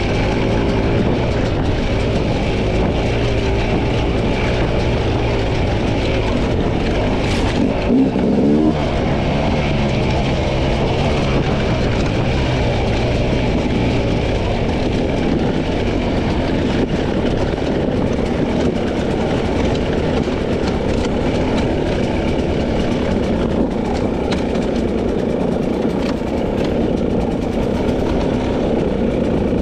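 A 300cc two-stroke dirt bike engine running under load on a trail ride, the revs rising and falling, with one sharp rev about eight seconds in.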